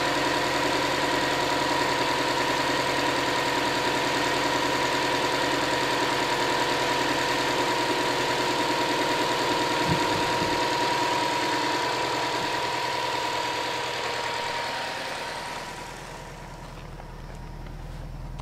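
Subaru WRX STI's turbocharged flat-four boxer engine idling steadily while warming up after a cold start at −10 °C, with a constant whine running over the idle. About fifteen seconds in the engine sound fades away, leaving a quieter low rumble.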